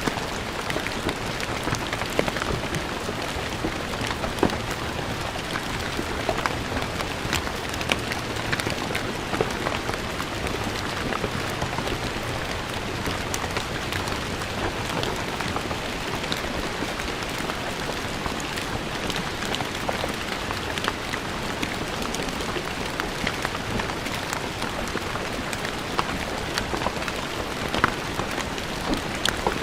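Steady rain falling on stone paving, a constant hiss of many drops with individual drop splats scattered through it.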